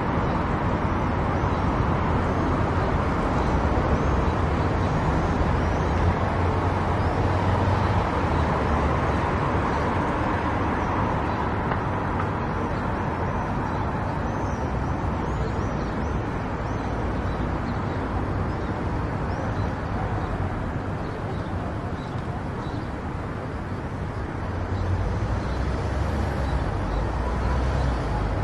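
A car driving along a road: steady tyre and engine rumble with road noise, easing slightly late on and swelling again near the end.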